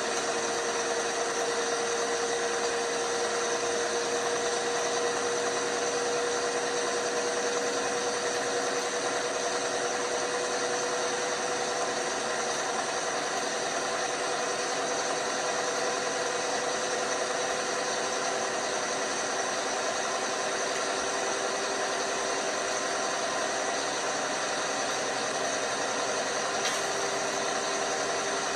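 LG washing machine running: a steady whir with a motor whine that slowly drops in pitch.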